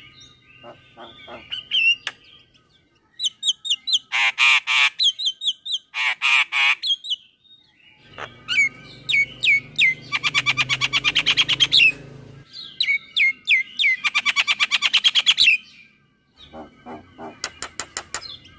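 Male Javan myna (jalak kebo) singing a varied song: fast runs of rapidly repeated notes alternating with harsh squawking phrases, broken by short pauses.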